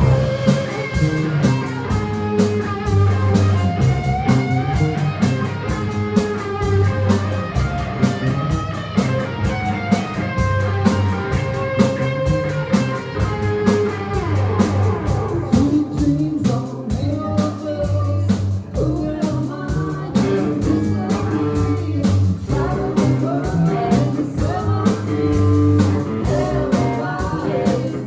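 Band playing a blues-rock number: electric guitar over bass and drums keeping a steady beat, with bending guitar notes about halfway through.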